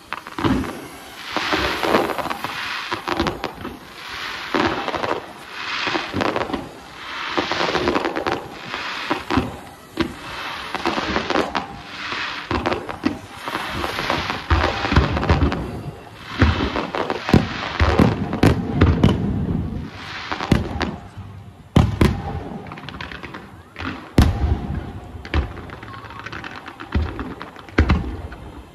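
Aerial fireworks display: shell after shell bursting with crackling and deep booms. The sharp bangs come thicker in the second half.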